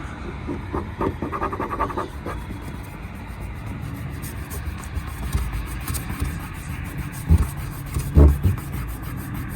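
Handling and work noises under a car's hood: a quick run of light clicks and rattles about a second in, then two thumps near the end, over a low steady rumble.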